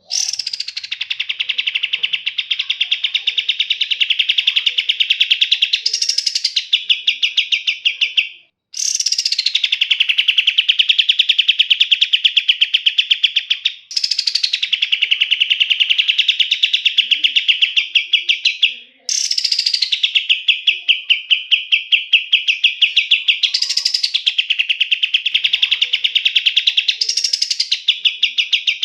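Kapas tembak (olive-winged bulbul) singing long, rapid rattling trills, each several seconds long and opening with a short downward slide. The trills break off briefly three times and start again at once.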